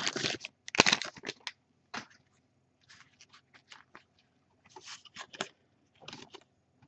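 Crinkling and rustling of a trading-card pack's wrapper and the cards being handled: scattered short crackles, busiest in the first second and a half and again around five seconds in.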